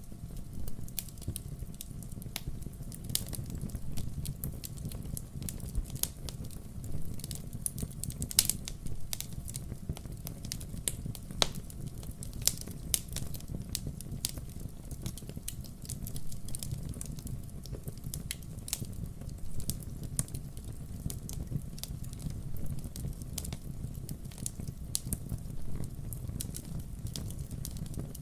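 Burning firewood crackling: scattered sharp pops and snaps over a steady low rumble of the fire.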